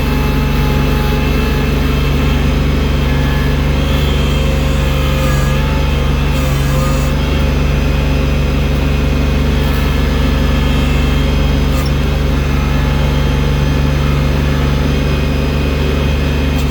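Engine of a bucket-equipped tractor running steadily at a constant speed: an even, deep hum that holds its pitch throughout.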